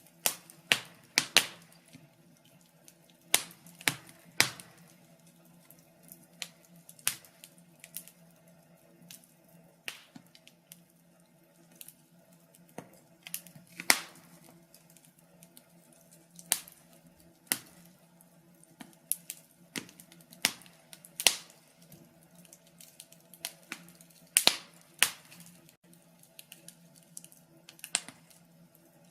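Wood fire crackling: irregular sharp pops and snaps, a few a second, some much louder than the rest, over a faint steady low hum.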